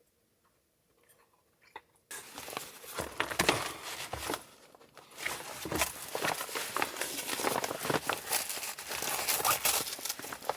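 Footsteps crunching through snow, an irregular run of crunches that starts suddenly about two seconds in after near silence.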